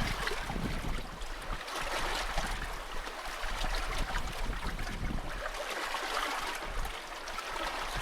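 Sea water rushing and splashing along the hull of a sailing yacht under way, with wind on the microphone. The rush swells and eases every couple of seconds as the boat meets the waves.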